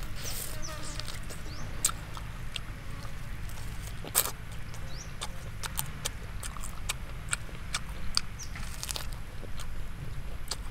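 Close-up eating sounds of a person chewing roasted chicken: a string of irregular wet clicks and lip smacks, the sharpest about four seconds in, over a low steady rumble. A bird chirps faintly a couple of times.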